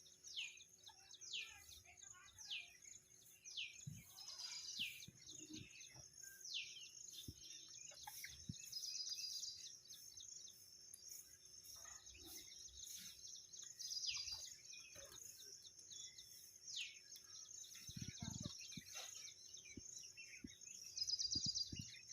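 Birds calling: repeated sharp whistled notes sweeping downward, roughly one a second, mixed with a few short rapid trills. A few soft low thumps come near the end.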